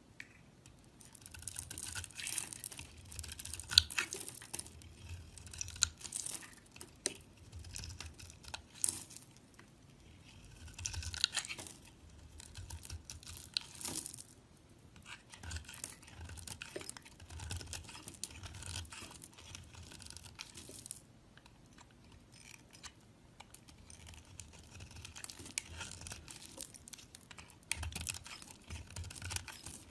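A knife cutting and scraping through a bar of soap, in bursts of crisp scraping and crackling with small clicks, separated by short pauses.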